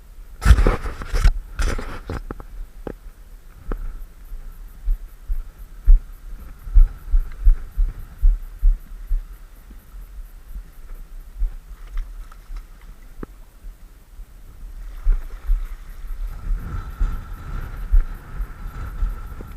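Kawasaki JS300 stand-up jet ski on the water: irregular low thumps and knocks over a faint steady engine hum. The hum grows louder about three-quarters of the way through, and there is a loud rush of noise near the start.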